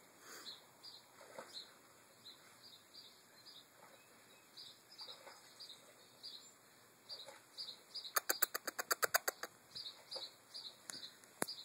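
Small birds chirping over and over, short high calls about twice a second, with a quick run of about a dozen sharp clicks lasting just over a second about two-thirds of the way through.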